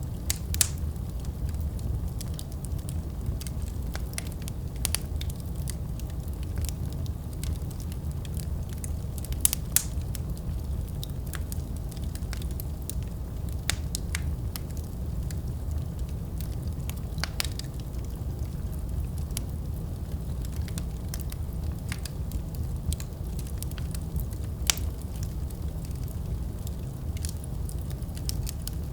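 Wood fire burning in a fireplace: a steady low rumble of flames with irregular crackles and pops, a few of them sharper snaps.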